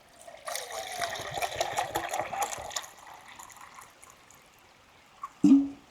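Water being poured into a pot to make coffee, splashing for about two and a half seconds with a pitch that rises as the vessel fills. A brief low hum near the end.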